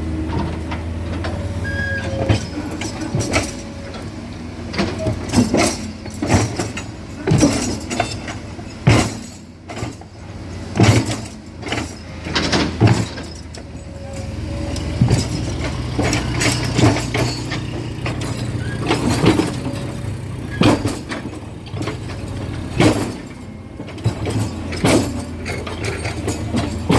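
Diesel excavator running steadily at work on a rock hillside, with frequent irregular clanks and knocks of the bucket and steel against rock and stone.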